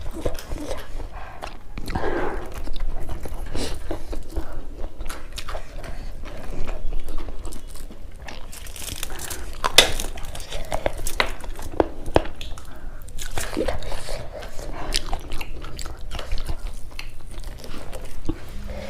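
Close-miked eating: wet chewing and irregular crunchy bites and mouth clicks as two people eat meat curry and rice by hand.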